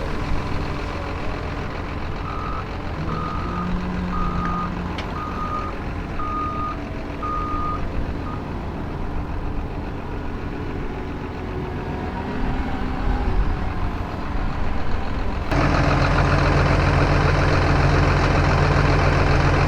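Heavy farm machinery's diesel engine running steadily while a reversing alarm beeps about seven times in a row, starting about two seconds in. Near the end the engine noise jumps suddenly louder and stays there.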